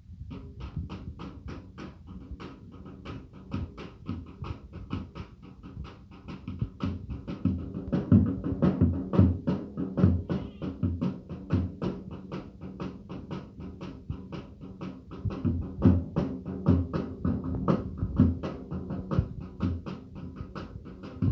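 Rhythmic percussive music: a fast, even beat of sharp clicks over low drum-like thumps, louder from about eight seconds in.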